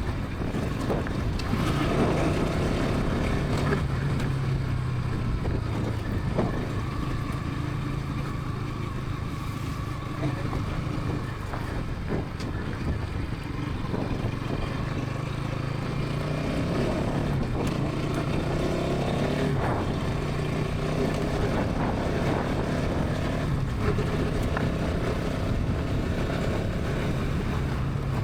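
Bajaj Pulsar NS 200's single-cylinder engine and exhaust running steadily at highway speed, its pitch shifting a little now and then.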